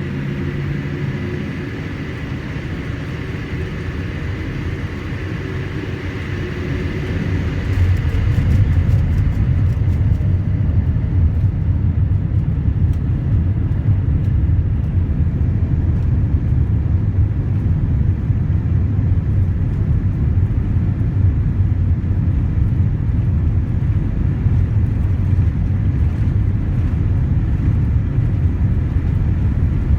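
Cabin noise inside a Boeing 787-8 with GEnx-1B engines. Steady engine tones give way about eight seconds in to a sudden, louder, deep steady rumble as the engines reach takeoff power and the jet rolls down the runway.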